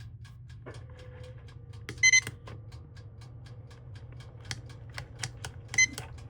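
Buttons on a digital timer being pressed to set it: a run of short clicks, with two loud, short, high-pitched beeps about two seconds in and near the end. A faint steady hum starts under a second in.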